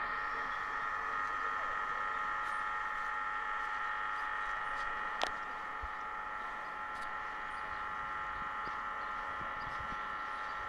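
Regional passenger train giving off a steady, high-pitched squeal of several tones at once, with a single sharp click about five seconds in.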